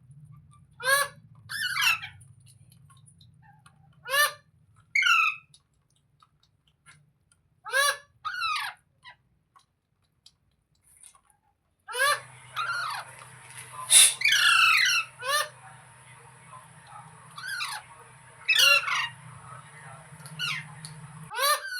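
Rose-ringed (ringneck) parakeet squawking: short, harsh calls, often in quick pairs, scattered at first and coming thick and fast in the second half, over a low steady hum.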